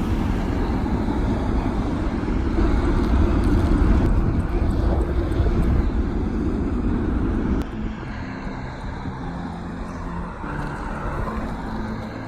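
Wind rumbling on the microphone while cycling, stopping abruptly about seven and a half seconds in, with background music continuing underneath.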